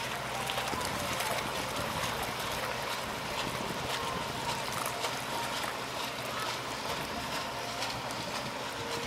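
Paddle steamer under way: a steady churning of water from its paddle wheels, with many small irregular splashes and clicks.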